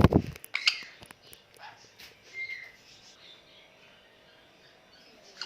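A loud thump at the start, then a few short, high parrot chirps and a brief whistled note a couple of seconds in.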